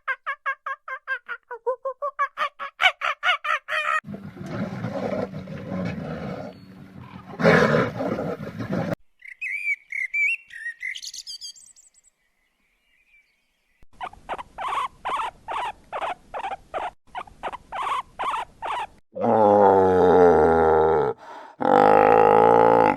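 A run of different animal calls one after another. First comes a rapid string of short high calls, then rougher noisy calls, then high bird chirps. After a short pause there is an even train of calls at about three a second, and two long drawn-out calls near the end.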